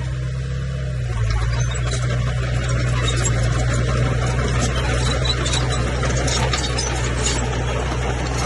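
Diesel engine of a Komatsu bulldozer running steadily under load, with light metallic clicks and rattles over it; the engine note grows a little louder about a second in.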